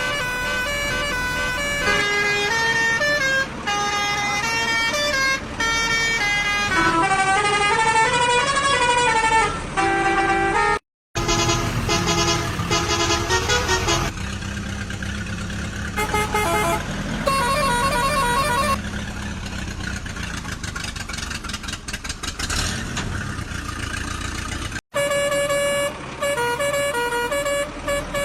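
A string of edited vehicle horn sound effects: melodic, tune-like toots that change pitch note by note, with a rising and falling siren-like tone midway, broken by two sudden cuts.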